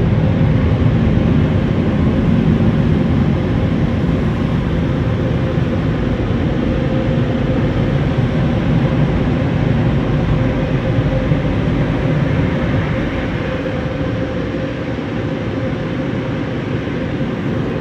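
Air dryer blowers of an automatic car wash gantry blowing on the car, heard from inside the cabin: a loud, steady rush of air with a steady hum, easing slightly near the end.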